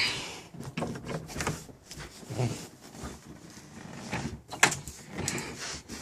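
Irregular knocks, taps and rubbing of handling noise, with a sharp clunk at the start and a louder knock about four and a half seconds in; no engine running.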